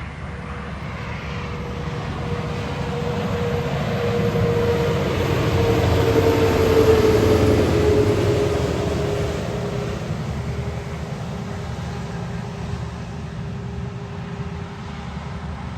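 A heavy truck passing by. Its noise builds to a peak about seven seconds in and then fades, with a whine that drops slowly in pitch as it goes past.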